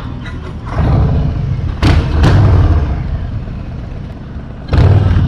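Motorcycle on the move: a steady low engine rumble, with loud rushes of wind noise hitting the microphone about a second in, around two seconds, and near the end.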